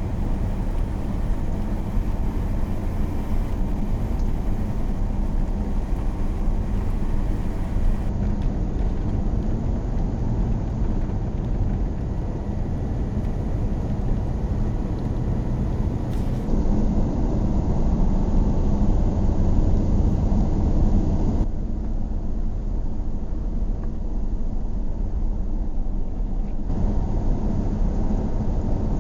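Steady low rumble of a camper van driving: engine and road noise, changing abruptly in character several times.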